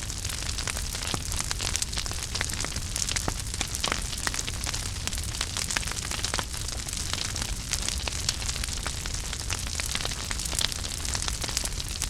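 Wood fire burning in a fireplace, with a steady low rumble and frequent small crackles and pops.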